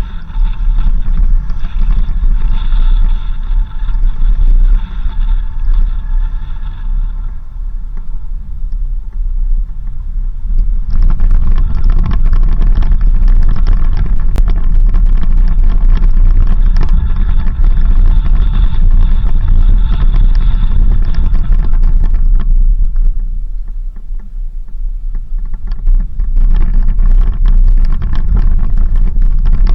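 Off-road vehicle driving on a dirt road: a steady low rumble of engine and road noise. Over it runs a higher multi-tone hum that fades out twice for a few seconds.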